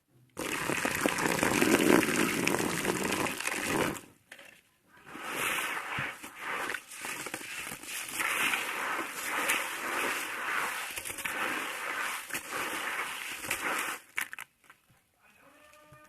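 Dry moulded sand bowl being smashed and crumbled in grainy sand: a dense gritty crunching for about four seconds, then after a short pause a longer run of irregular crumbling and crunching that stops near the end.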